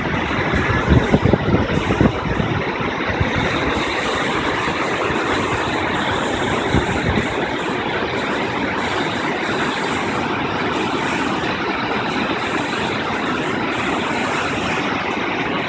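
Appomattox River rapids swollen with snowmelt, a loud steady rush of whitewater, with a few low thumps in the first two seconds.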